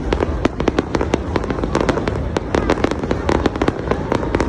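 Fireworks display: a rapid, dense stream of sharp cracks and bangs from bursting aerial shells, many a second, over a continuous low rumble.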